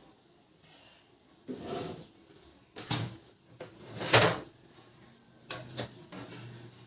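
A handful of separate clunks and scrapes of plastic printer parts being handled and fitted, about five in all, each lasting under half a second, with a faint low hum near the end.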